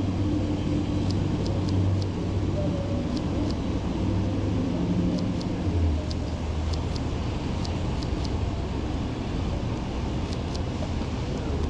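City street traffic: a steady low rumble of cars, with scattered faint light ticks.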